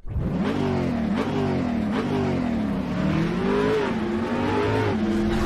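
Car engine revving up and down repeatedly, its pitch rising and falling, with a few sharp clicks.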